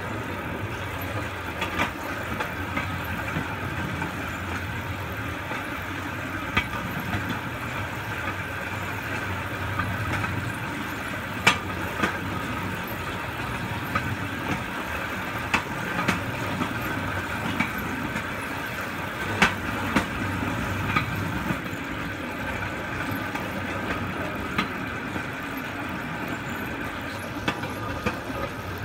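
Steel wheels of a pedal-powered rail bike rolling along railroad track: a steady rumble with a sharp click every few seconds.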